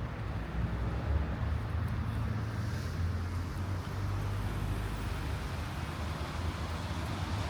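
Outdoor city street ambience: a steady low rumble with a noisy hiss over it, no voices.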